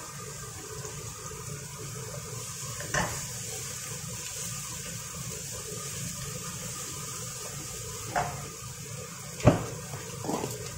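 Chopped onion and garlic sizzling in a nonstick frying pan, with a wooden spatula knocking against the pan four times, the loudest about nine and a half seconds in.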